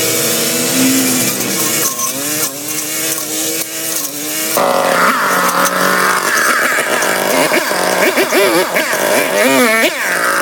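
Small petrol engine running and revving up and down, its pitch rising and falling, with sudden changes in the sound at about two and four and a half seconds.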